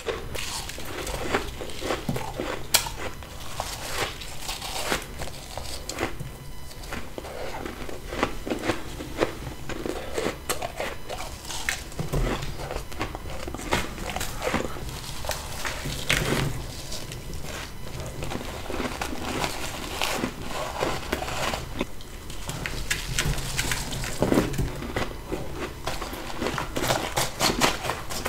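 Close-miked biting and crunching of freezer frost ice grown with a humidifier: a dense run of crisp, crackling crunches, one bite after another.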